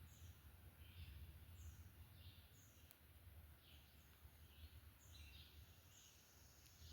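Faint songbirds chirping, short high notes repeating about once a second, over a low steady rumble.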